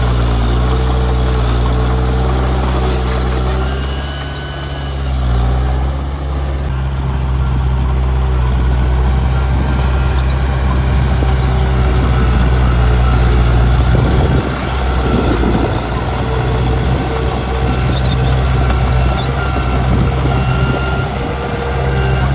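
Heavy diesel engine of earthmoving machinery running steadily with a deep, even drone. It eases off briefly about four seconds in, then picks up again, and turns rougher and noisier in the second half.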